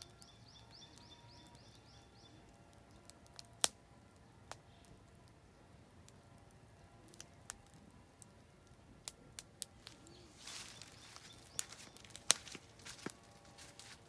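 Oak firewood campfire crackling, with sharp pops scattered through and the loudest about 4 s and 12 s in, plus a short hissing rush a little past the middle. A small bird sings a rapid high trill in the first couple of seconds.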